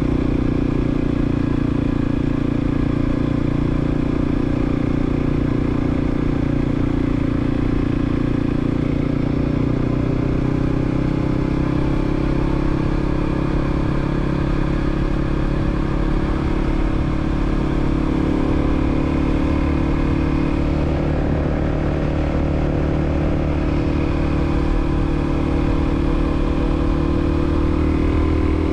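Kawasaki KLX300's single-cylinder four-stroke engine, breathing through a Delkevic 14-inch slip-on muffler, running steadily while riding on the street. The engine pitch holds fairly even, drifting a little and rising slightly near the end.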